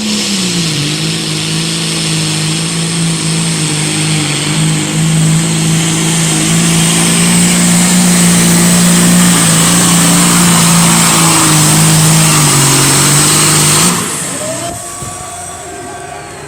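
Pulling tractor's engine held at full throttle under load down the track. It runs at a steady pitch and slowly grows louder for about fourteen seconds, then the throttle is cut and the sound falls away suddenly.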